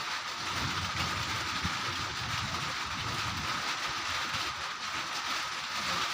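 Steady rain with strong wind, the gusts rumbling low and unevenly underneath, and a faint steady high tone throughout.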